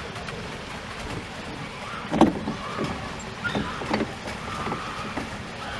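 Small rental boat on a pond turning in place, with water swishing against the bow and several short knocks and splashes, the loudest about two seconds in.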